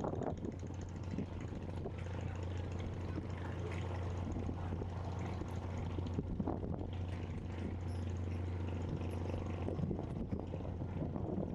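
An engine running steadily, giving a low, even hum, with faint scattered background sounds over it.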